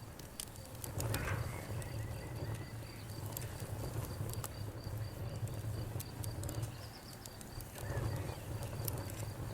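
Wood fire crackling, with scattered sharp pops and snaps over a low, steady rumble of burning. The pops cluster more thickly about a second in and again near the end.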